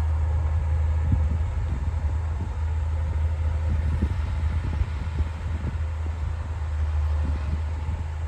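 Diesel engine of a D60 crawler bulldozer running steadily at work, a low drone with uneven low thuds over it.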